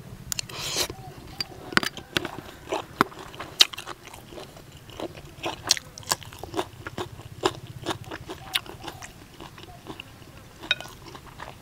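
Close-up chewing and crunching of a mouthful of duck larb with crispy skin and fresh vegetables: irregular sharp crunches several times a second, with wet mouth sounds.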